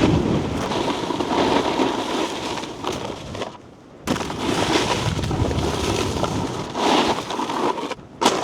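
Snowboard base and edges sliding and scraping over slushy, icy snow, a steady loud rushing hiss with a brief lull about halfway through.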